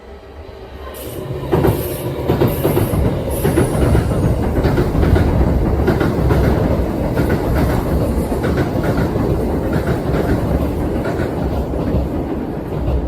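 Kintetsu electric train passing close by: a loud, steady rumble that builds about a second in, with the wheels clacking over rail joints in a regular run. A few brief high squeals from the wheels sound in the first few seconds.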